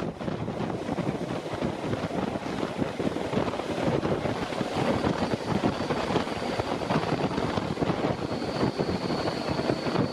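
Passenger train in motion, heard from on board: a steady rushing running noise with wind buffeting the microphone. A faint high whine comes in about five seconds in and grows stronger near the end.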